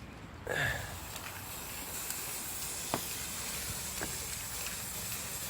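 Aerosol spray paint can spraying: a steady hiss that starts abruptly about half a second in, with a couple of faint clicks.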